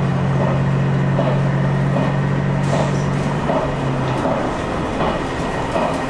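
Diesel limited-express train running along the track, heard from behind the driver's cab. A steady low engine drone stops about four seconds in, while the wheels click over rail joints at roughly even intervals over a constant running rumble.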